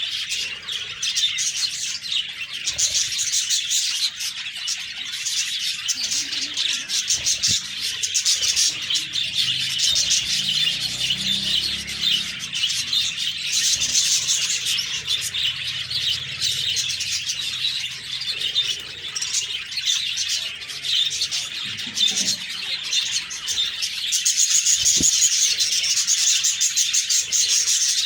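A flock of budgerigars chattering and chirping continuously, many rapid overlapping warbles and tweets, louder near the end.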